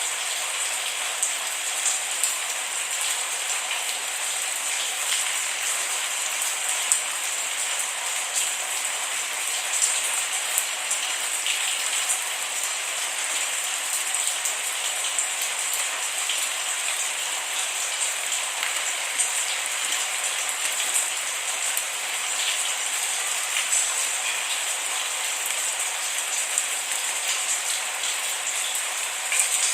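Steady rain falling, an even hiss with many small drops ticking on a surface, with no thunder.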